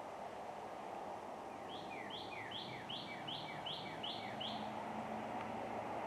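A songbird singing a quick run of about eight repeated two-note phrases, each with a downslurred note, over a steady background hiss. A faint low drone comes in near the end.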